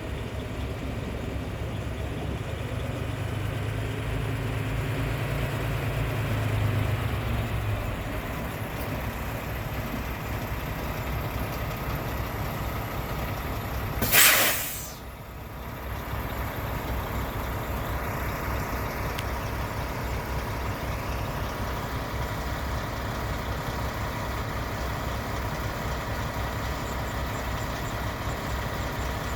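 Semi-truck's diesel engine running with a steady low rumble, heard from the cab. About halfway through comes a loud, sharp hiss of released air that lasts about a second and dies away.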